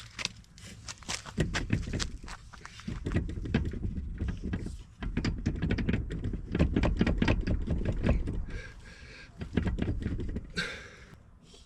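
Irregular knocks, clunks and clicks of hand tools and metal parts being worked on a sterndrive lower unit, with a low rumble underneath.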